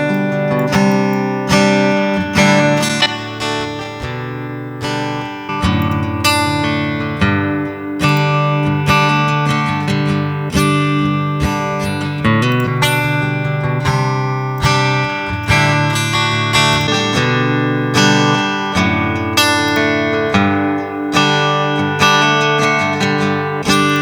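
Acoustic guitar played through a Line 6 HX Stomp XL with an acoustic-guitar impulse response and a simple EQ: picked and strummed chords in a steady rhythmic pattern, with the chord changing every few seconds.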